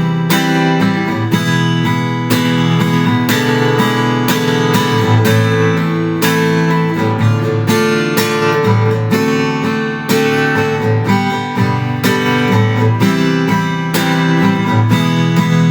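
Acoustic guitar strummed in a steady rhythm, about two strums a second, playing an instrumental passage of a song.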